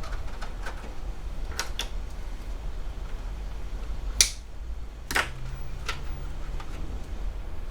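Several sharp clicks and knocks from handling parts inside a desktop PC case as the build is finished. There are a few light ticks early on and two louder clicks about four and five seconds in, over a steady low hum.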